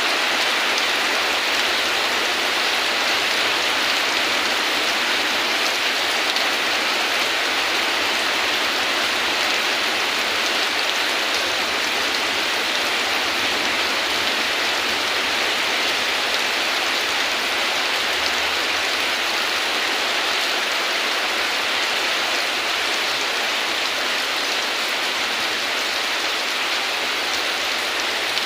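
Steady heavy rain, an even hiss of rainfall without distinct drops or thunder.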